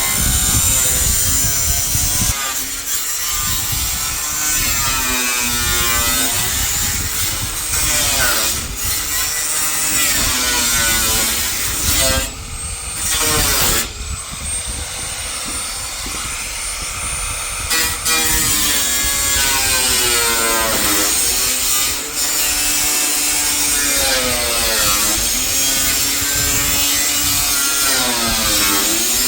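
A motorised cutting tool running under load, its pitch sagging and recovering over and over as it bites into the work, with gritty cutting noise throughout. It eases off briefly about a third of the way in.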